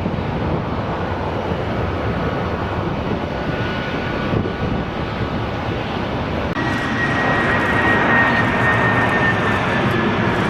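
Jet airliner engines running with a steady rush; about two-thirds of the way in, a high engine whine comes in and slowly falls in pitch as the sound grows louder.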